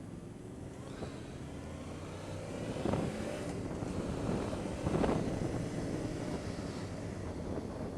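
Motorcycle engine running on the move, with wind rushing over the microphone; the wind noise swells twice, about three and five seconds in.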